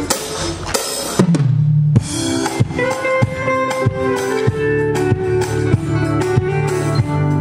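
Live band at a sound check: a drum kit plays a few hits, a low bass note slides down just after a second, then bass and sustained keyboard-like notes join the drums in a steady beat.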